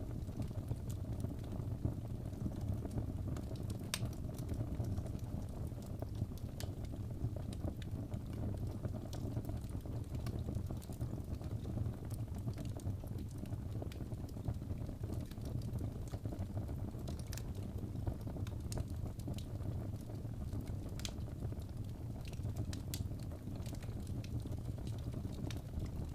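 Wood fire in a fireplace crackling: scattered sharp pops and snaps over a steady low rumble of the burning fire.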